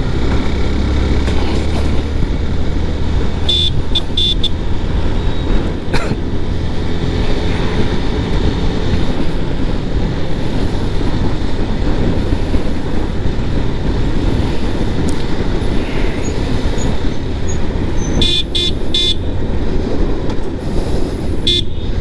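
Steady low rumble of wind rushing over a helmet-mounted action-camera mic on a motorcycle ridden at normal speed, the Axor Apex Vivid helmet's visor closed and chin pad fitted. Short repeated horn toots come through about four seconds in and twice more near the end.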